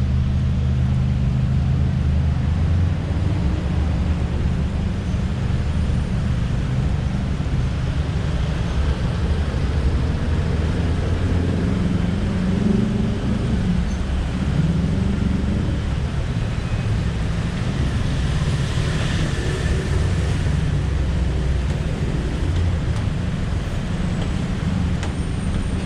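Busy city road traffic: the steady low rumble of car and bus engines running past, with a brief louder hiss of a passing vehicle about two-thirds of the way through.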